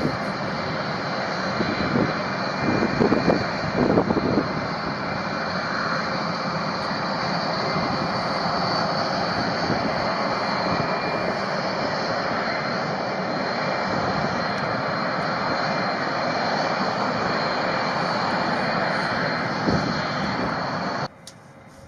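B-1B bomber's turbofan jet engines running: steady jet noise with a high whine, swelling a few times early on and cutting off suddenly near the end.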